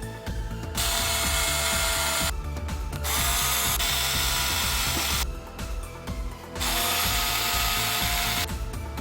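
A power drill's motor run at full speed in three bursts of about two seconds each, with a steady whine, over background music.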